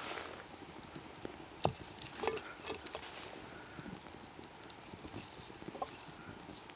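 Camp cooking preparation: a few light knocks and clicks from cookware and ingredients being handled, four or so separate strokes over a faint steady hiss.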